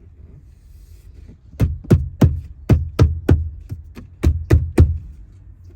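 A quick run of about eleven hard knocks, roughly three a second, lasting about three seconds, like something being struck repeatedly to seat it.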